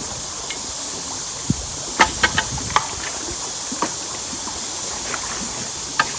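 Creek water rushing steadily, with a few scattered sharp knocks and clicks, a cluster of them about two seconds in.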